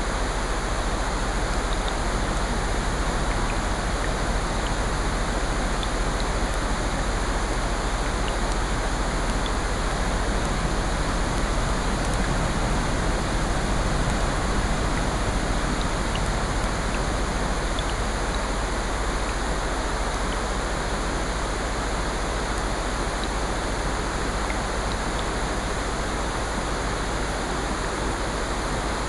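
A steady blend of falling rain and ocean surf, with faint scattered crackles of a wood fire.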